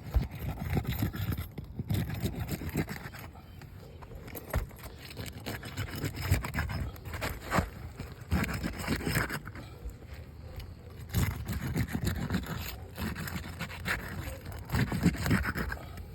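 Roof snake scraping under asphalt shingles as it is worked in beneath them, in irregular bursts with a few sharp clicks.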